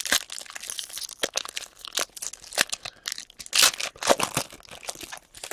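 Foil wrapper of a hockey card pack being torn open and crinkled, with a dense run of sharp crackles and rustles, the loudest about three and a half seconds in.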